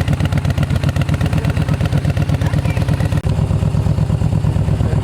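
Harley-Davidson motorcycle's V-twin engine running with a steady, rapid low pulsing beat, dipping briefly about three seconds in.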